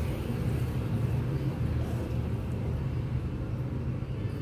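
Steady low mechanical hum with a rumbling noise underneath, unchanging throughout.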